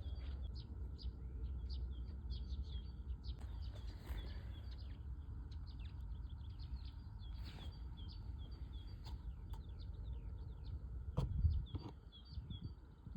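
Spring songbirds chirping and singing, many short quick notes from several birds at once, over a low rumble. A single thump about eleven seconds in.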